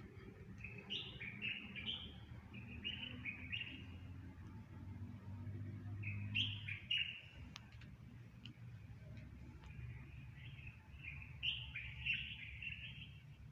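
Songbird singing in three spells of quick, chirpy notes: one near the start, one in the middle, one near the end. A low, steady rumble lies underneath.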